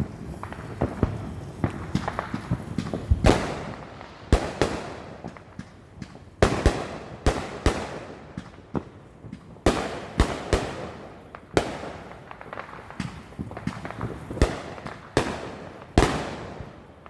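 Neighbourhood fireworks and firecrackers going off, many sharp bangs and pops at irregular intervals, some with a trailing rumble of echo.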